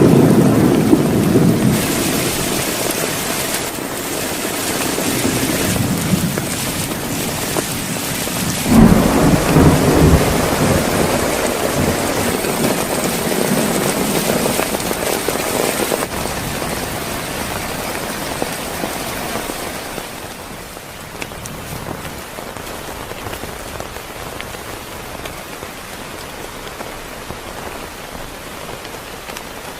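Heavy rain with thunder: a rumble fading over the first couple of seconds, then a sudden thunderclap about nine seconds in that rolls on for a few seconds. Steady rain follows, a little quieter in the last third.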